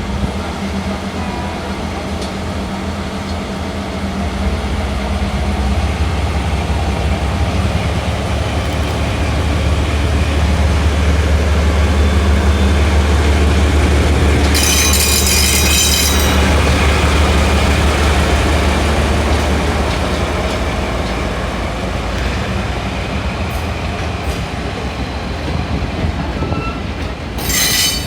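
DE10 diesel-hydraulic locomotive hauling old passenger coaches past, its diesel engine running under power and growing louder toward the middle before fading, with wheels on the rails. Two short high-pitched bursts cut in, one about halfway through and one near the end.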